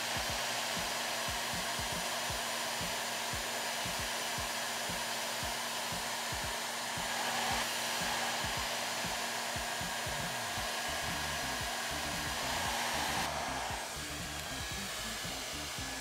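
Budget 2000-watt hand-held hair dryer blowing steadily on its highest setting: an even rush of air over a steady motor hum, getting slightly quieter about 14 seconds in.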